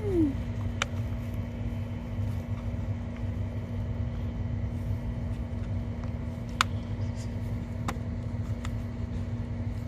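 A steady low rumble with a constant hum, and four short sharp clicks spread through it as parts are handled.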